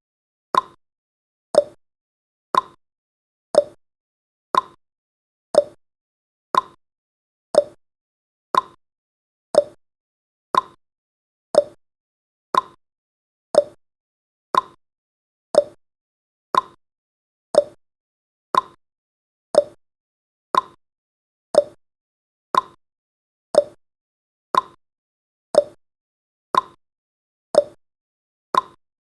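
Countdown timer's clock tick-tock sound effect, one sharp tick each second, alternating between a higher and a lower click.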